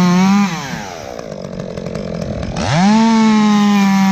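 Two-stroke chainsaw at full throttle, let off to idle about half a second in, then revved back up to full speed near three seconds in and held there.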